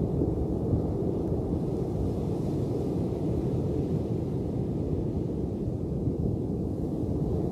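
Ocean surf: a steady, low wash of wave noise without distinct separate crashes.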